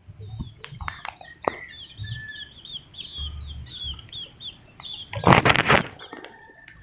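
A bird chirps in a rapid run of short, high chirps, with a few light clicks and a short, loud burst of noise about five seconds in.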